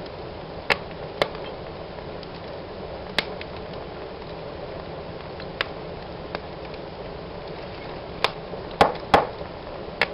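Wood fire burning in a fireplace: a steady soft hiss with sharp crackles and pops every second or so, the loudest two coming close together near the end.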